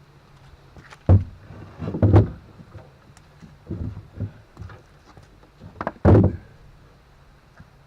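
Several dull knocks and thumps, the loudest about a second, two seconds and six seconds in, with lighter knocks between, over a faint steady low hum.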